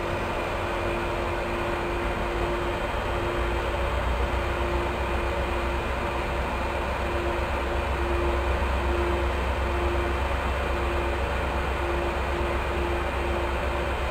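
Sounder commuter train standing at the platform with its diesel locomotive idling: a steady low rumble under a constant hum that keeps dropping out and coming back.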